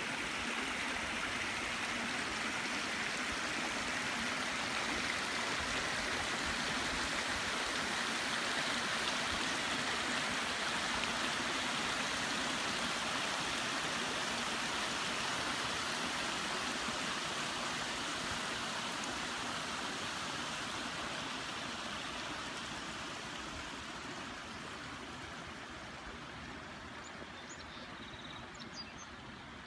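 Garden pond waterfall splashing into the pond, a steady rush of water that gradually fades over the last third. A few faint high chirps near the end.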